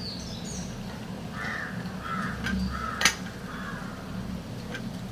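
Several harsh bird calls, crow-like caws, with one sharp clink of a small utensil about three seconds in.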